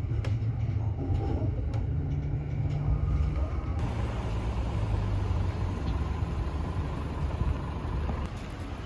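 Vehicle running, heard from inside: a steady low rumble, with a broad hiss that comes in suddenly about four seconds in.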